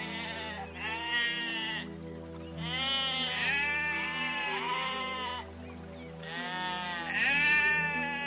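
An animal calling repeatedly, about seven short calls each rising then falling in pitch, over steady background music.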